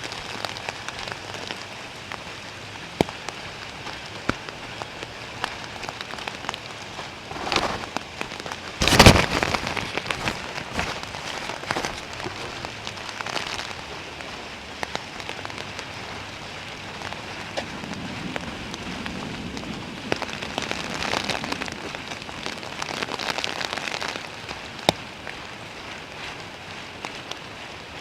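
Steady rain, with many single drops clicking close by. About nine seconds in there is one sudden loud crack, the loudest sound here.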